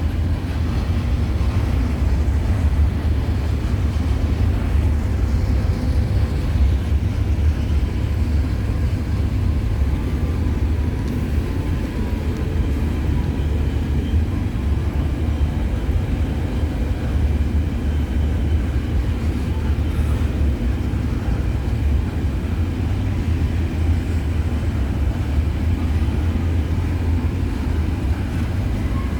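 Low, steady rumble of a CN freight train's diesel locomotives approaching at a distance, with no horn and no change in level.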